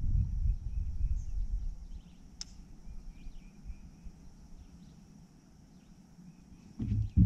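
Outdoor lakeside ambience: a steady high insect drone with short bird chirps. A low rumble fades out over the first two seconds, there is a single click about two and a half seconds in, and a low thump comes near the end.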